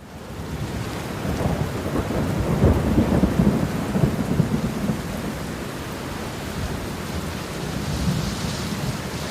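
Rain falling steadily, with a rumble of thunder that swells about a second and a half in, is loudest around three seconds in, and dies away after about five seconds, leaving the rain.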